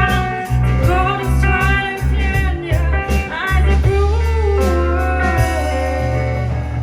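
A live band playing a song: a voice singing over electric guitar, bass and drums.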